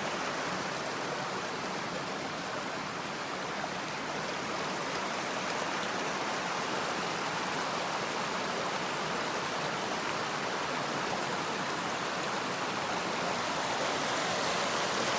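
Mountain stream flowing steadily over rocks, a constant babble of running water.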